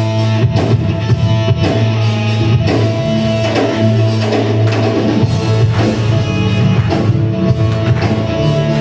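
Church worship band playing, with guitar and drums keeping a steady beat.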